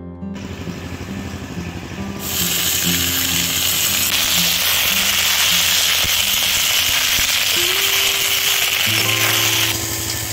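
Cut drumstick (moringa) pods sizzling loudly in hot oil in a wok as they are stirred with a spatula; the sizzle starts about two seconds in and stops shortly before the end. Soft background music plays throughout.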